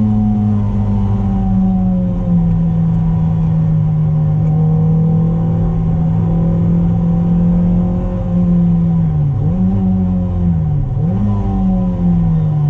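Toyota MR2's 2ZZ-GE 1.8-litre four-cylinder engine heard from inside the cabin under hard track driving. It holds a high, fairly steady pitch, dips sharply and picks straight back up twice in the second half, then drops in pitch near the end as the car slows.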